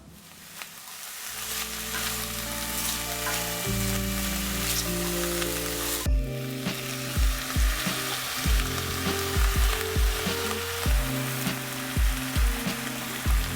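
Food sizzling as it fries in a pan, the sizzle fading in over the first couple of seconds, under instrumental background music; from about six seconds in, the music adds a beat of low drum thumps.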